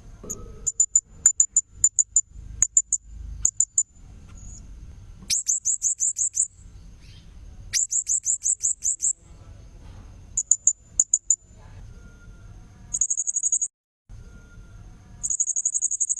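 Recorded calls of a blue-crowned hanging parrot (serindit), played as a bird-catching lure call: bursts of rapid, very high-pitched chirps about a second long, alternating with clusters of single sharp chirps, repeated over and over.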